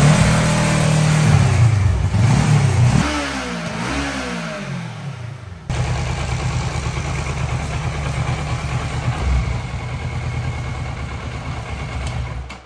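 Motorcycle engine revved up and down a few times with the rear wheel spinning on the stand, then idling steadily. The engine cuts out just before the end.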